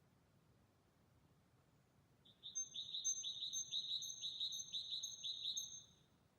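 A bird singing at night: after about two seconds of quiet, a rapid series of high chirps, about four to five a second, runs for roughly three and a half seconds and then stops.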